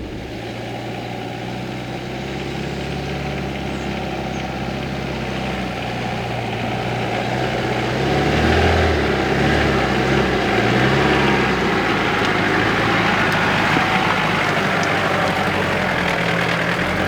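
4x4 off-road vehicle's engine running at low revs. About halfway through it gets louder, and the revs rise and fall as the vehicle is driven on the trail.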